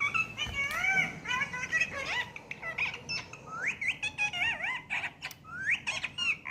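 Indian ring-necked parakeet chattering: a quick run of short whistled notes that sweep up and down in pitch, mixed with sharp clicks.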